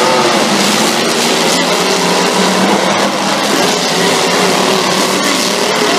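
Several derby trucks' engines running hard at full throttle, blending into a loud, dense din, with a few short sharp knocks from collisions.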